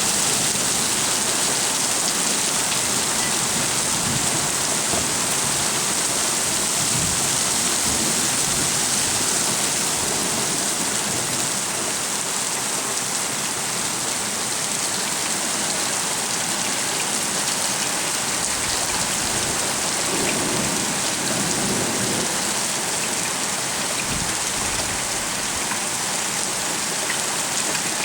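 Heavy rain pouring steadily in a thunderstorm, a dense even hiss. Low rumbles of thunder swell up about two-thirds of the way through.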